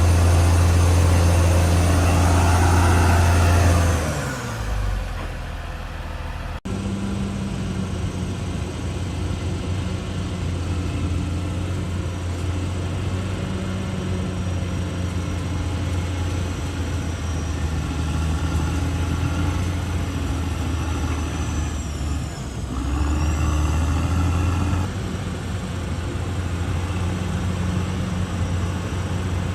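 Diesel engine of a CAT D6R XL bulldozer running under load. About four seconds in its note falls and it gets quieter, then it runs on steadily, rising to a louder, higher note for a few seconds past the twenty-two second mark.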